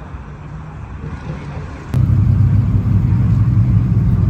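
Car engine rumble that cuts abruptly, about two seconds in, to a much louder car engine running close by with a deep, steady low rumble.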